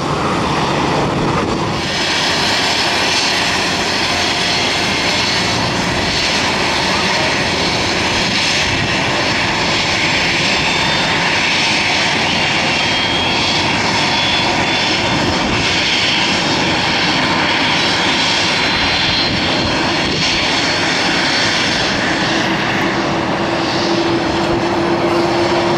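Jet airliner engines, a loud steady roar with a faint high whine that shifts in pitch.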